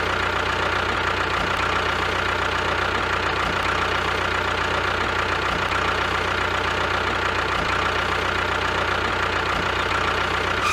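An engine idling steadily at a constant speed with a fast, even knock, cutting off suddenly at the end.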